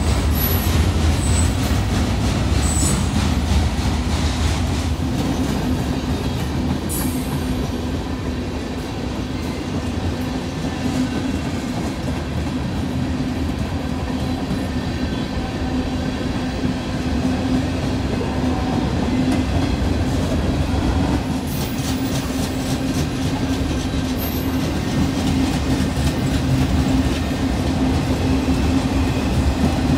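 A freight train passing close by. The locomotive's low rumble is heaviest in the first few seconds, then a long string of freight cars rolls past with a steady rumble and wheels clicking over the rail joints.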